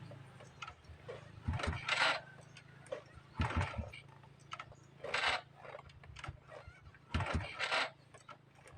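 Honda motorcycle being kickstarted again and again: about four kicks, roughly two seconds apart. Each kick turns the engine over in a brief chuffing burst that dies away without the engine catching.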